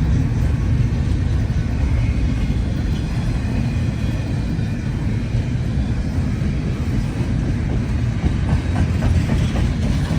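Freight train cars rolling past, a steady heavy rumble of wheels on rail, with wheel clicks over the rail joints near the end.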